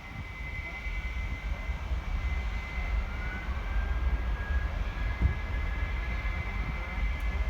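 Aircraft engines running: a steady high whine, with a second tone that rises a few seconds in, over a low rumble.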